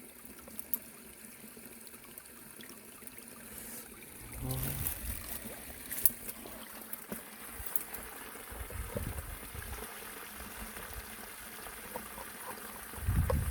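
Stream water trickling and flowing over a weir, a steady wash with a few faint knocks.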